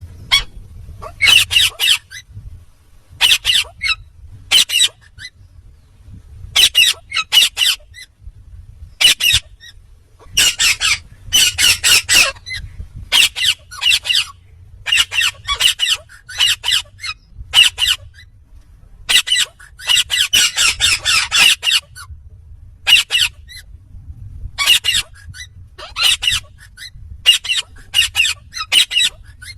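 Indian ringneck parakeet squawking: loud, harsh, high calls in short clusters, one every second or two, over a faint low hum.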